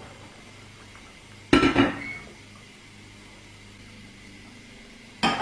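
Kitchen dishes being handled: a short clatter about a second and a half in, followed by a brief ring, and another clatter near the end.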